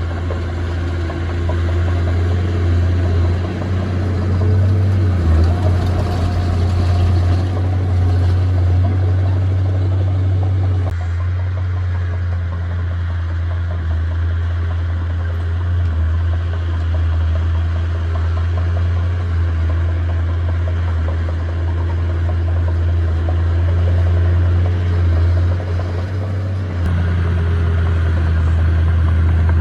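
Diesel engine of heavy earthmoving machinery running with a steady low drone, its note shifting as the load changes about eleven seconds in and again near the end.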